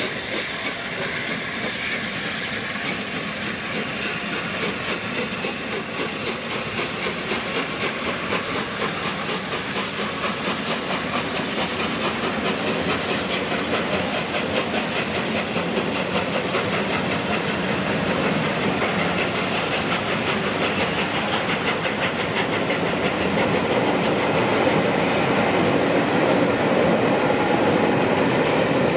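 A steam-hauled charter train rolling past as it departs, its wheels clicking over the rail joints, growing louder toward the end.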